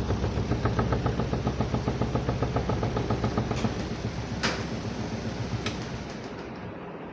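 Samsung 8.5 kg semi-automatic washing machine's spin tub running with an even pulsing hum, about five beats a second, that slowly fades as it winds down and stops about six seconds in. Two sharp clicks come about four and a half and five and a half seconds in.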